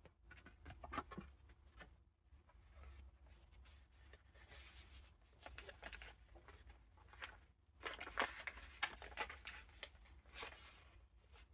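Paper pages of a junk journal being turned and handled: irregular soft rustling and crinkling, with louder page rustles about eight seconds in and again near the end.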